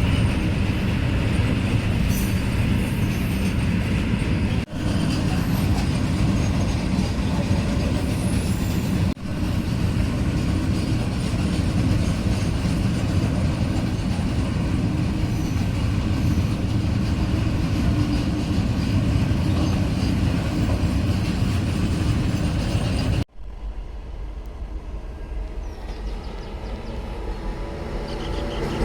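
Loaded coal freight wagons of an Indian Railways train rolling past on the rails: a steady heavy rumble of wheels on track. It breaks off abruptly twice, and drops to a quieter rumble about five seconds before the end.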